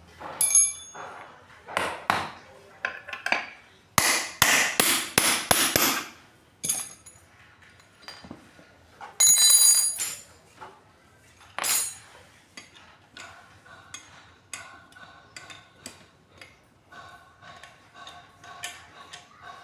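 Hammer blows on metal parts of an electric water pump, with quick-fire taps a few seconds in and several single hard strikes that ring.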